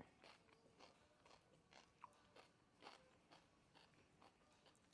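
Faint chewing: a person eating close to the microphone, with soft mouth clicks and crunches coming about every half second.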